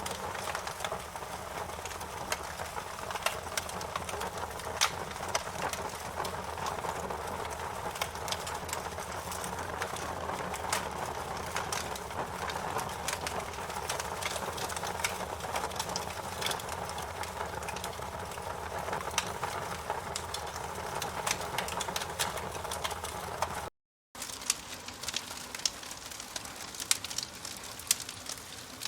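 Campfire burning, with frequent sharp crackles and pops over a steady rushing hiss of the flames. The sound cuts out for about half a second a little after twenty-three seconds in, then carries on.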